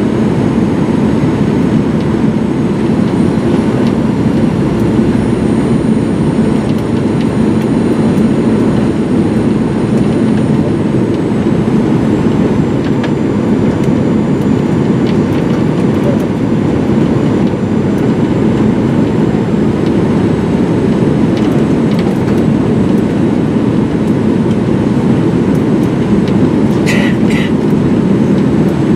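Steady cabin rumble inside a Boeing 737-900ER: its CFM56 jet engines and the airflow past the fuselage, heard as an even low roar with a faint hum. Two short high tones sound about half a second apart near the end.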